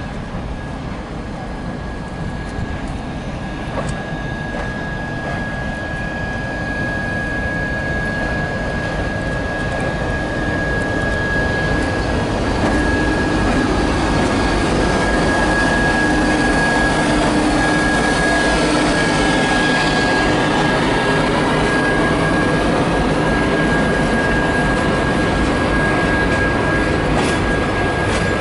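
Long-distance passenger train pulling in alongside the platform: it grows louder over the first dozen seconds as it draws near, then rolls by steadily, with a high, steady whine held throughout.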